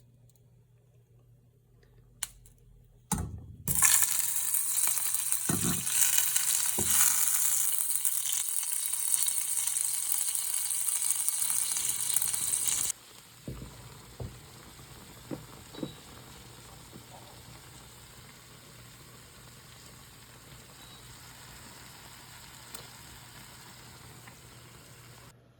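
A loud, even sizzling hiss lasting about nine seconds that cuts in and out abruptly, followed by a much quieter steady hiss with a few light knocks.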